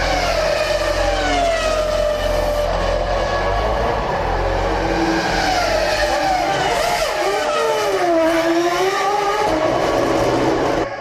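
Several 2000-season Formula One cars' 3.0-litre V10 engines at high revs, their pitches rising and falling and crossing as the cars shift gears and pass by. The sound drops off suddenly near the end.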